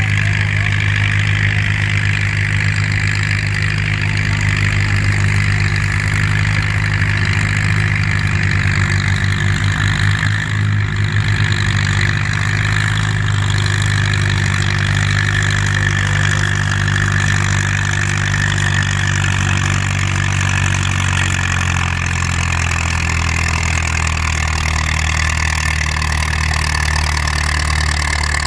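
Antique farm tractor engine running hard and steadily under load while pulling a weight sled, the engine note sagging a little in the second half.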